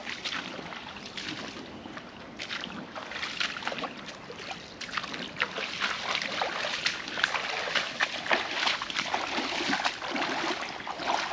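Wellington boots wading through a shallow stream, water sloshing and splashing with each irregular step.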